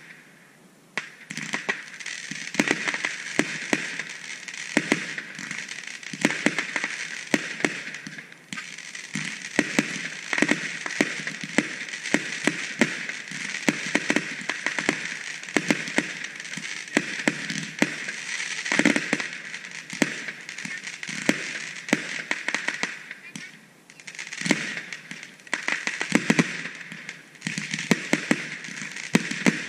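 Aerial fireworks display: an irregular run of sharp bangs and pops, several a second, over a steady crackling hiss. There are short lulls about a second in, around eight seconds and around twenty-four seconds.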